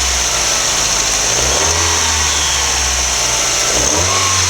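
Mazdaspeed MX-5's 1.8-litre turbocharged four-cylinder running just after its first startup on a newly fitted Evo3 16G turbocharger. It sits near idle, and its engine note shifts in pitch twice: about a second and a half in, and near the end.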